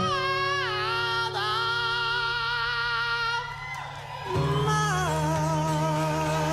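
Live hard-rock band playing, with long held notes that bend and waver in pitch over a steady low bass note. The sound thins out briefly about four seconds in, then the full band comes back.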